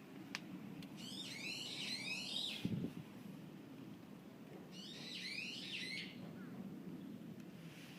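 A songbird singing two phrases of quick, repeated down-slurred chirps, one starting about a second in and the other around the middle, over a low steady background noise. A dull thump comes near the end of the first phrase.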